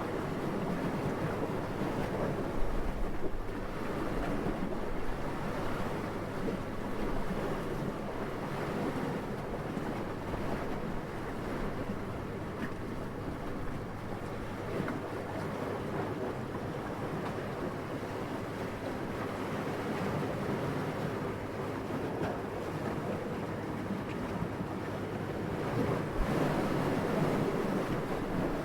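Steady wind noise with slow, gentle swells, briefly stronger about two and a half seconds in and again near the end.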